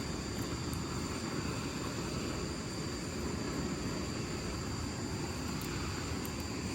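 Steady outdoor ambience: a constant low rushing noise with an unbroken high-pitched insect drone above it.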